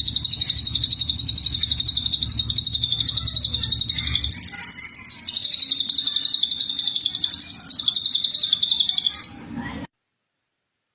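A songbird giving one long, fast trill of rapidly repeated high notes, rising and falling slightly in pitch, that stops abruptly near the end.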